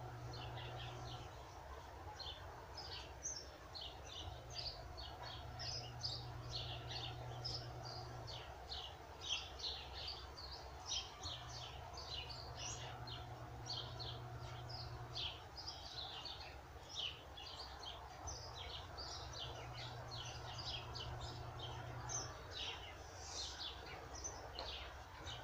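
Small birds chirping busily: a steady stream of short, high chirps.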